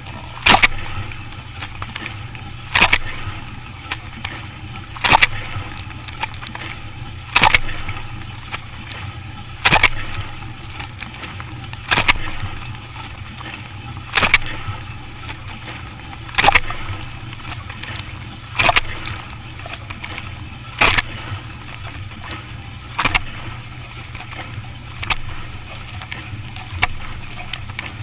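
Dishwasher running: a steady pump hum with a sharp burst of water spray about every two seconds, as the rotating spray arm sweeps its jets past the door.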